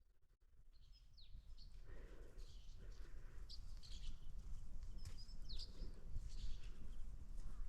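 Faint bird chirps, short high calls coming about once a second, over a steady low rumble.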